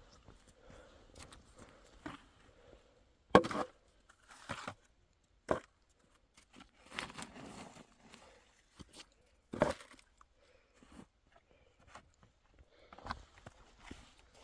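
Irregular knocks and crunching, rustling handling noises, with two sharp knocks, about three and a half and ten seconds in, standing out.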